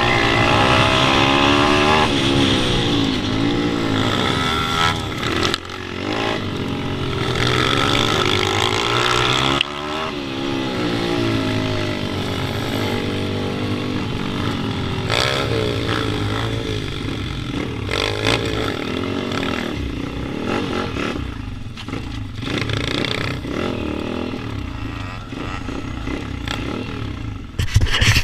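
Pit bike engine revving hard, its pitch rising and falling again and again as it is ridden around the track, with a noisy rush over it. A burst of sharp knocks near the end.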